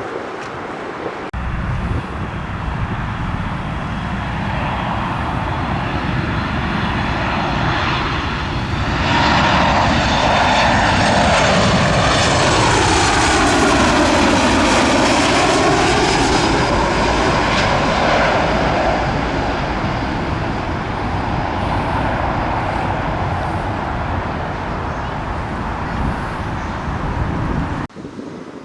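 Jet airliner passing low overhead: the engine rumble and hiss build to a peak about a third of the way in, with a whine that sweeps down and back up as it goes over, then ease off. The sound cuts off suddenly near the end.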